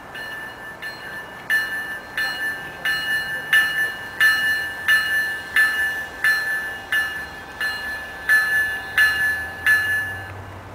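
Locomotive bell ringing steadily, about three strikes every two seconds, louder from about a second and a half in, then stopping shortly before the end.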